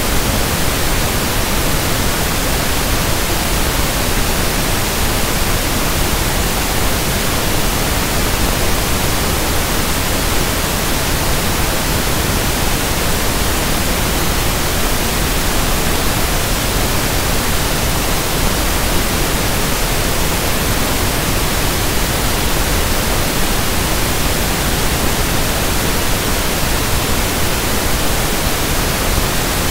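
Steady pink noise (1/f noise): an even, unchanging hiss.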